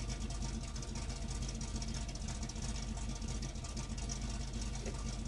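1981 Camaro Z28's 383 V8 idling steadily at the tailpipe, a fast even exhaust pulse with no change in speed.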